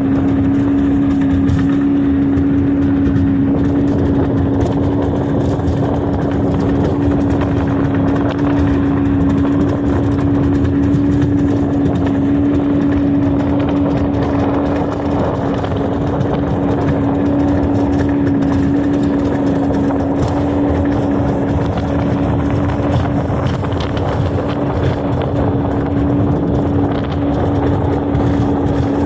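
Johnson outboard motor pushing a Carolina Skiff at a constant cruising speed: a nice steady hum holding one pitch, over an even rushing noise.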